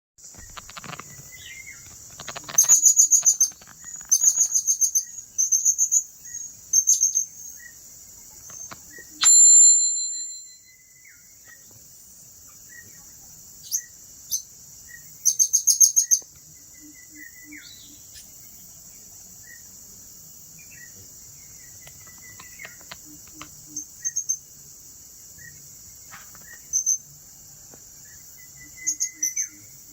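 Blue-crowned hanging parrot (serindit) calling in short bursts of rapid, very high-pitched chirping trills. The bursts come close together in the first seven seconds and again around fifteen seconds, then more sparsely, with one louder, longer shrill note about nine seconds in. A steady high insect drone runs underneath.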